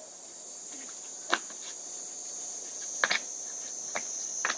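Steady, high-pitched chorus of insects buzzing, with a few sharp taps about a second in, around three seconds in and near the end.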